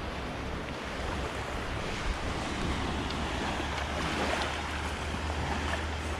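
Sea surf washing steadily on a sandy beach, with a low wind rumble on the microphone.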